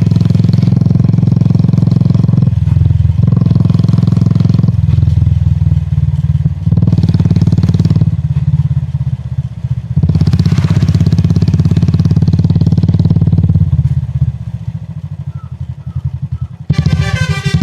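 Royal Enfield Classic 350's single-cylinder engine thumping under way, the throttle opening and closing several times and easing off about three-quarters of the way through. Near the end a loud horn with several tones sounds over it.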